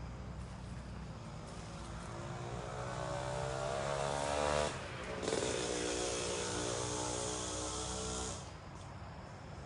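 A motor vehicle engine revving up, rising in pitch for about two seconds, breaking off sharply, then running on steadily with a strong hiss for about three seconds before dropping back to a low hum.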